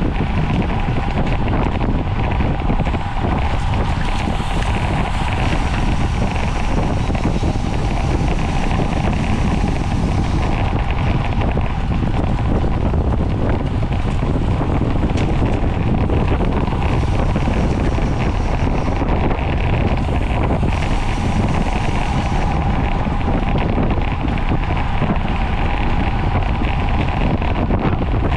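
Steady, loud wind rushing over the microphone of a camera on a racing bicycle at speed, with road noise underneath.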